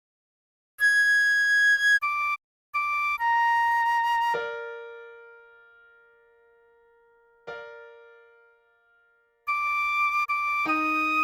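A recorder plays a melody of held single notes over a piano accompaniment. The recorder breaks off for a few seconds in the middle, leaving two piano chords that ring and fade, then comes back in near the end.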